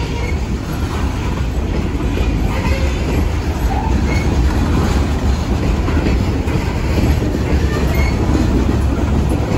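Open-top hopper cars of a freight train rolling past close by: a loud, steady rumble of steel wheels on rail, with a few brief faint wheel squeals.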